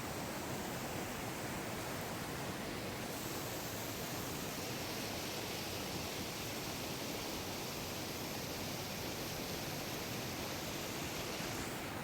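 Steady rushing water from a waterfall or stream, an even roar without breaks. The hiss turns brighter about three seconds in and dulls again near the end.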